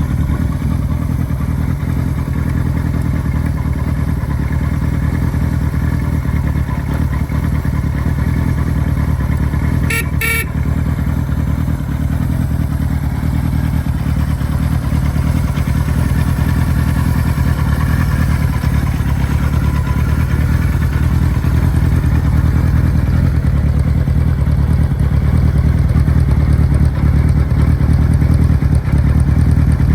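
Kawasaki Z1's air-cooled inline-four engine running steadily at idle, with no revving, a little louder in the last third. About ten seconds in, a brief sharp double sound cuts through.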